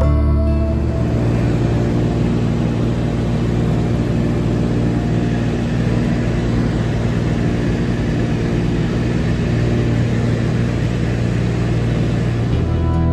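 Seaplane engine and propeller running steadily in flight: an even hum with a rush of air noise.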